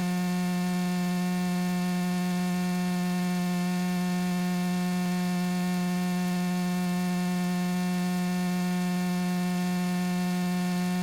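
Steady, unchanging hum in the cockpit audio of a Luscombe light aircraft in cruise flight: one strong low tone with evenly spaced overtones over a faint hiss.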